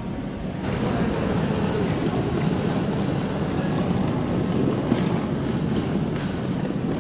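Night train running at speed: a steady rumble and rushing noise of wheels and air, which steps up a little over half a second in and then holds.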